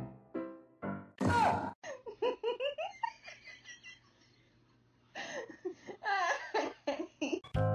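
Laughter in short, broken bursts, with a brief louder sound with a sliding pitch about a second in and a quiet pause in the middle. Piano music plays at the start and comes back near the end.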